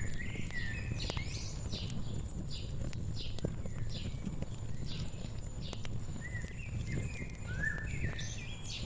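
Wood fire crackling, with sharp scattered pops over a low steady rumble. Small birds sing short chirping phrases near the start and again in the last few seconds.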